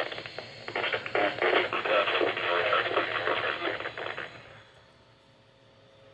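Weather radio broadcast through a small speaker, the voice thin and garbled, fading out about four seconds in.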